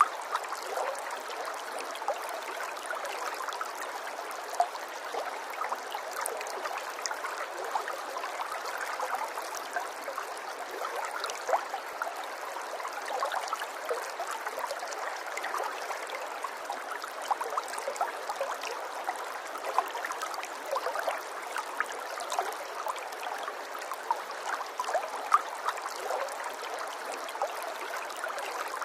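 Running water of a small stream, trickling and gurgling steadily with many small splashes and drips.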